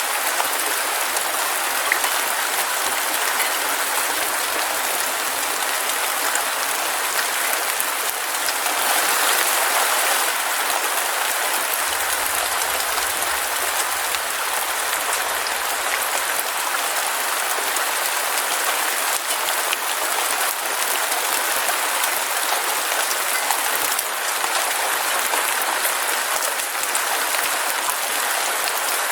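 Heavy rain falling steadily, a dense even patter with a brief swell about nine seconds in.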